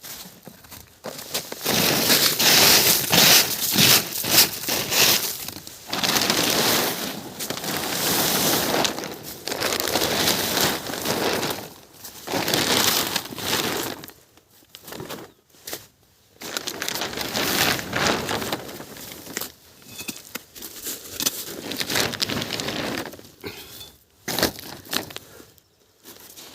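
Hail pelting down, a dense clatter of many small impacts that surges loud for a few seconds at a time and drops away between surges.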